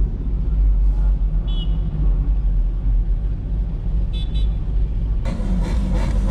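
Deep, steady rumble of car engines at a car meet, with two short high-pitched chirps about a second and a half and four seconds in, and a louder rush of noise coming in near the end.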